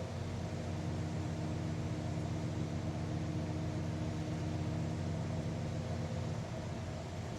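Solaris Urbino 12 city bus heard from the driver's cab: a steady engine drone with a few held low tones under an even noise, with no change in pitch or level.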